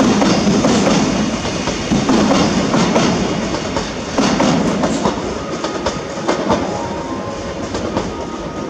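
Odakyu electric commuter train pulling away, its wheels clattering over the rail joints and points in repeated groups, slowly fading as it leaves.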